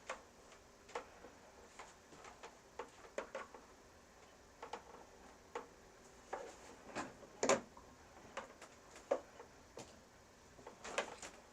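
Scattered small clicks and knocks of objects being handled and set down, at irregular spacing, the loudest about seven and a half seconds in.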